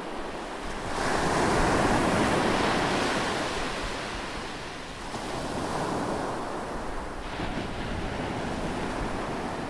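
Ocean surf: a wave breaks and washes up about a second in, fading over several seconds, and a smaller wash follows about halfway through.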